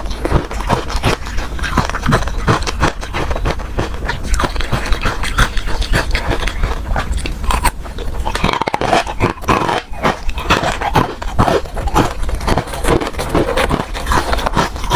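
Ice being bitten and crunched with the mouth close to the microphone: a dense, continuous run of crisp cracks and crunches.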